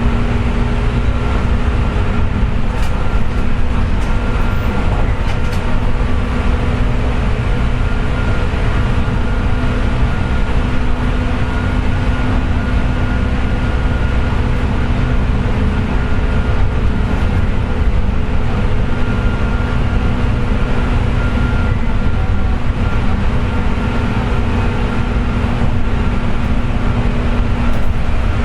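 JR West 201 series electric train (motor car MoHa 201-280) running steadily at speed: a continuous rumble of wheels on rail with a steady whine over it. The whine is the "jet sound" that comes from bearings damaged by electrical pitting (electrolytic corrosion).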